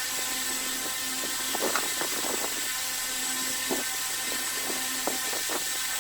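Scattered light metallic clicks and knocks from hand work on a partly dismantled ATV engine, with a few in quick succession about a second and a half in and more later on. A steady hiss runs underneath.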